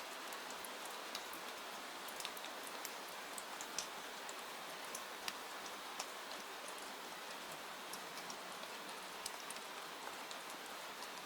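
Steady rain hiss with scattered sharp pops and ticks from a crackling wood fire, coming irregularly several times a second.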